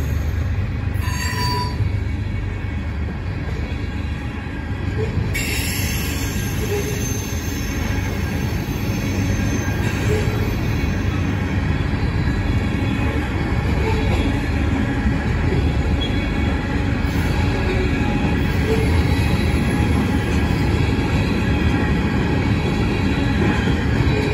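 Tank cars of an ethanol freight train rolling past: a steady rumble of steel wheels on rail.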